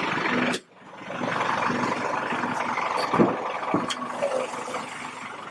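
Steady vehicle and engine noise with a few faint knocks. The sound cuts out suddenly about half a second in and then comes back.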